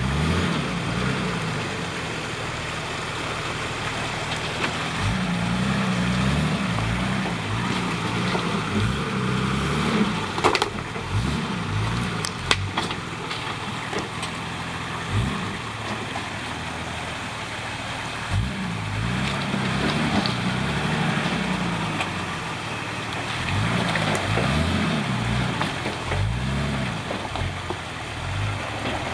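Nissan Patrol's 4.2-litre straight-six turbo diesel engine working off-road, its revs rising and falling again and again, with a few sharp knocks near the middle.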